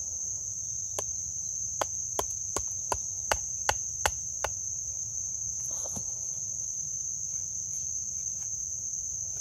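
A run of about ten sharp wooden knocks, roughly three a second, growing louder, as a knife is tapped down into the end of a stick to split it. A steady high chirr of crickets goes on throughout.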